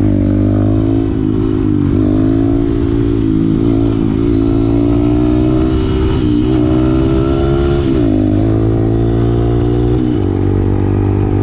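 Honda MSX125 (Grom) single-cylinder engine under way, its pitch climbing slowly and dipping back about every two seconds as the throttle is worked.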